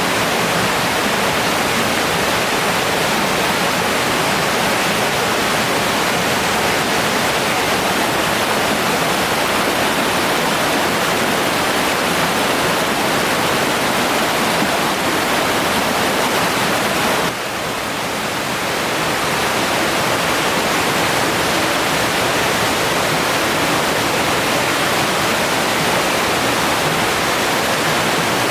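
Steady rushing of flowing river water, briefly dropping in level about two-thirds of the way through before returning.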